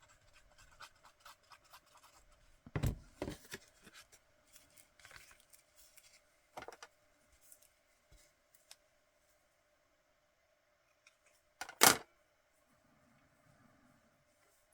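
Paper and lace being handled and snipped with scissors: light snips and rustles, two sharp knocks about three seconds in, and a louder knock near the end.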